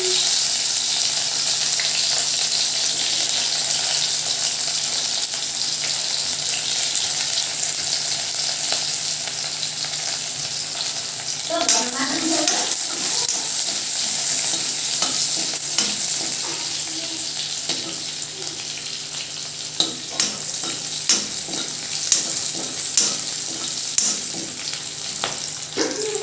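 Sliced onions and vegetables frying in hot oil in a cast-iron kadai, a steady sizzling hiss. A metal spatula stirs them, with a few sharp knocks and scrapes against the iron pan in the second half.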